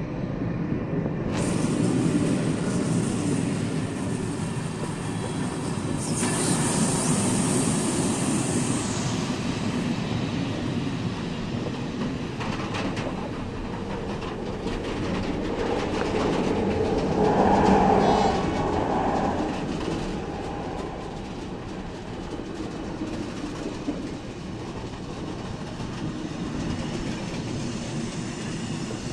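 Loaded container flat wagons of a freight train rolling past close by, the wheels rumbling steadily over the rails. About two-thirds of the way through there is a brief louder patch with a metallic ringing tone.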